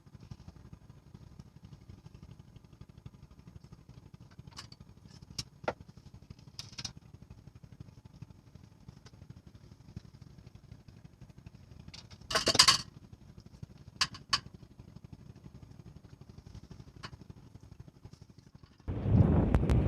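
A steady low hum with a few scattered clicks, a short clatter about two-thirds of the way in and two more clicks soon after. Near the end, loud wind noise on the microphone starts suddenly.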